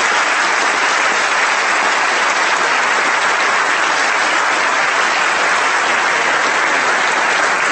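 Large audience applauding, a dense, steady clapping that holds at full strength.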